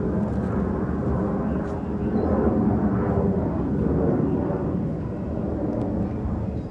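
Steady low rumbling noise, a little louder from about two to four and a half seconds in.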